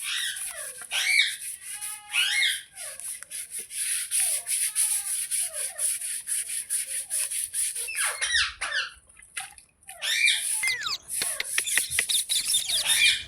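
Green parrots chirping with many short falling chirps over a fast, scratchy rasping. Both drop out briefly a little before the end.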